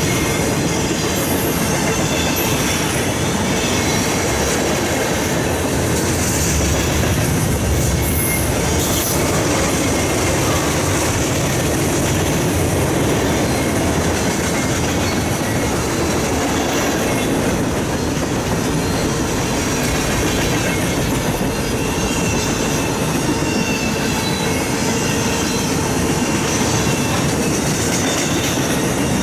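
A train rolling past: a steady rumble and clatter of steel wheels on the rails, with thin, high wheel squeals now and then.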